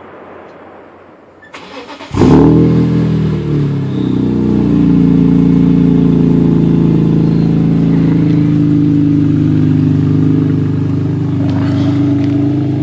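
BMW E46 M3's S54 straight-six, breathing through an Agency Power aftermarket exhaust, starting up: a brief crank about two seconds in, a loud flare of revs as it catches, then a steady idle.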